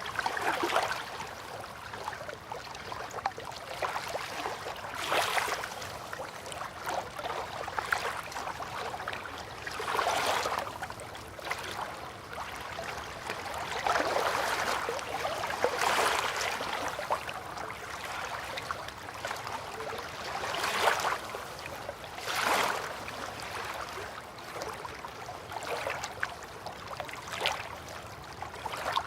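River water lapping and gurgling gently, in soft irregular swells every couple of seconds.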